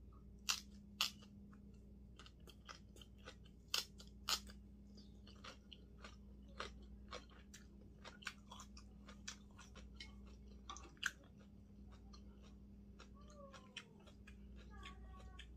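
Close-up chewing of crisp fresh cabbage kimchi (geotjeori): wet crunching bites, the loudest crunches in the first four or five seconds, then steady chewing. Near the end a short hummed voice sound.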